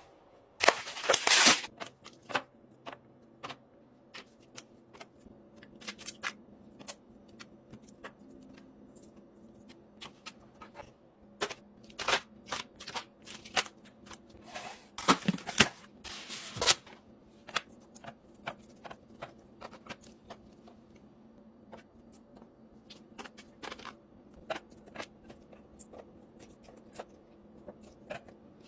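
Food and drink containers being handled and set into a refrigerator: irregular clicks and knocks of items put down, with a few short rustles of packaging.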